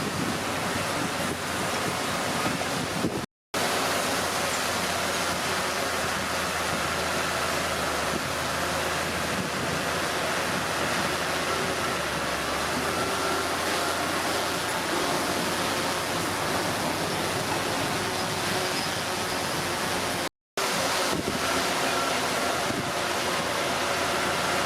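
Komatsu D31P bulldozer's diesel engine running steadily, heard through heavy wind noise on the microphone. The sound cuts out for a split second twice, about 3 seconds in and again near 20 seconds.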